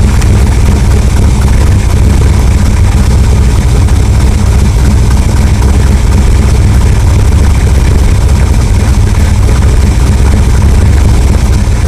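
Chevrolet 327 small-block V8 running steadily on an engine test stand, loud, at an even speed.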